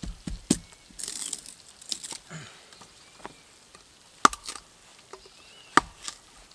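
A few sharp knocks and clacks with a short rustling hiss about a second in, from cookware and utensils being handled over a campfire.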